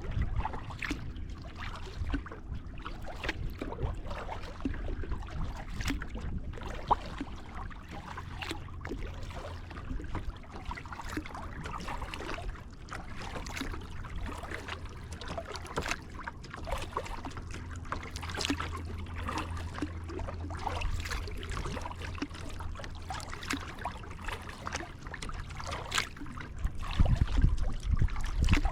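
Kayak paddle dipping and pulling through river water, with splashes and drips trickling off the blades, irregular throughout, over a steady low rumble.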